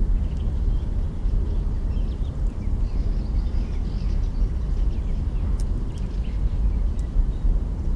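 Campfire burning at night, with a few sharp crackles from the burning branches, over a steady low rumble. Faint bird chirps are heard now and then.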